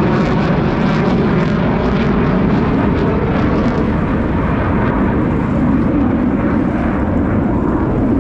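Blue Angels F/A-18 Super Hornet jet noise: a loud, steady roar that holds without fading, with a crackle in the first few seconds.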